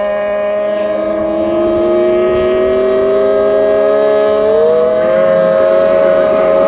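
Racing outboard motors running at high revs: a steady, siren-like whine of several engine notes held at one pitch. One note climbs slowly in pitch between about one and five seconds in, as that engine gathers speed.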